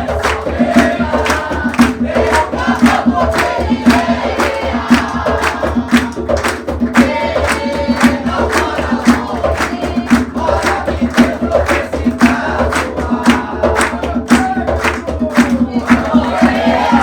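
A group singing an Umbanda ponto (sacred chant) over hand drums beating a steady rhythm of about three strokes a second.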